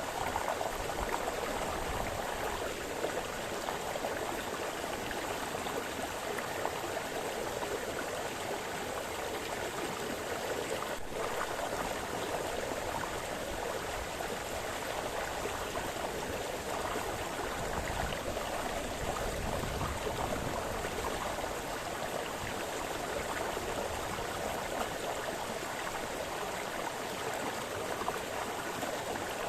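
Small brook splashing and burbling over stones, a steady rush of flowing water.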